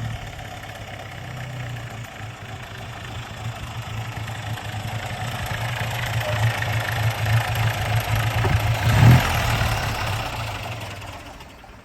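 1927 Lagonda 14/60's two-litre four-cylinder engine running, growing louder to a peak about nine seconds in and then fading away.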